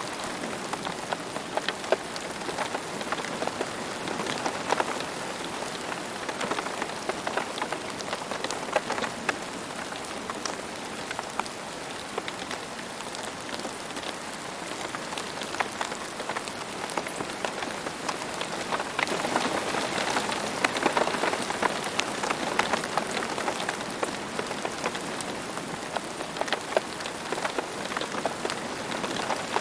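Steady rain falling, with many individual drops ticking sharply on a hard surface; it grows a little heavier about twenty seconds in.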